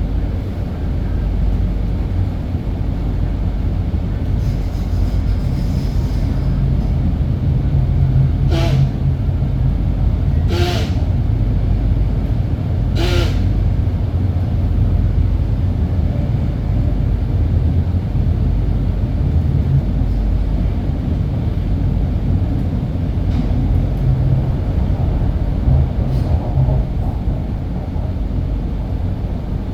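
MTR Island Line M-train running on the rails with a steady low rumble. Three short, sharp noises stand out, at about 9, 11 and 13 seconds in.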